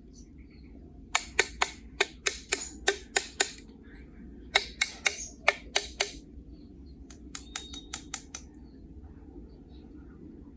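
Three quick runs of sharp clicks, about ten, then six, then seven fainter ones near the end, like small hard objects being tapped or snapped together.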